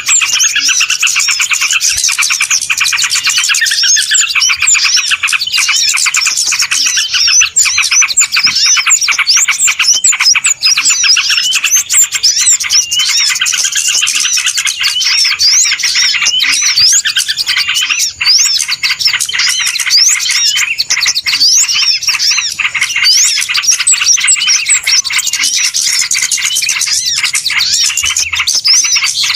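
Dense, overlapping chorus of many small birds chirping and twittering, with quick rising and falling notes packed close together without a break: the noisy flock calling used as a bird lure.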